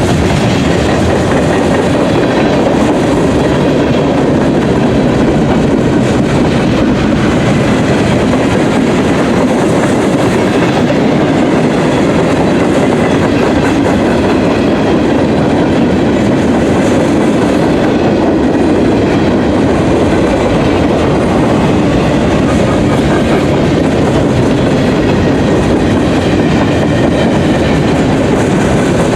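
Cars of a mixed manifest freight train rolling past: a steady, loud running noise of steel wheels on rail.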